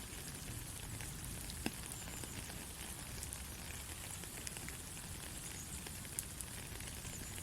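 Soft, steady rain falling, with scattered individual drops ticking and a couple of sharper drips.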